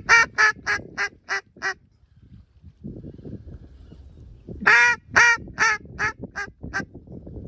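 A duck call blown in two runs of mallard-hen quacks, each run starting loud and trailing off: the hunter calling to a duck circling the decoys. Wind rumbles on the microphone between the runs.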